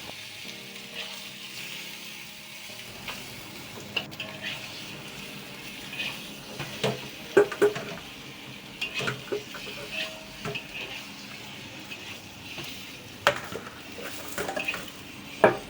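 Chicken pieces sizzling in chili paste in a pot while being stirred slowly, with scrapes and knocks of the utensil against the pot, the sharpest knock near the end.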